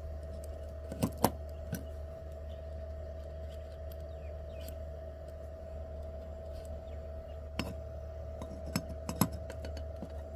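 Light clicks and taps of small parts being handled, a few at a time, over a steady electrical hum.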